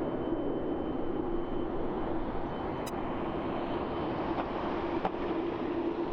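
Boeing 747-8 jet engines running steadily, a wide even noise with a steady droning tone beneath it.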